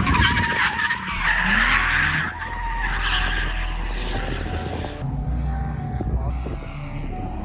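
Drift car sliding, its tyres skidding loudly over the engine for the first two seconds or so. The tyre noise then eases and the engine runs on more quietly, with the upper sound dropping away about five seconds in.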